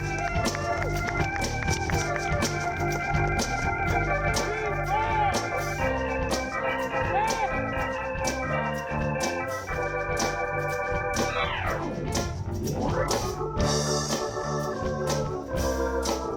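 Live soul band's instrumental break led by an organ-voiced keyboard holding chords, with a sweeping glide down and back up about twelve seconds in. Drums and bass play steadily underneath.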